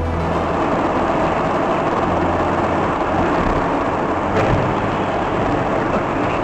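A vehicle running on the road: an even rushing noise of engine and tyres with a low hum underneath.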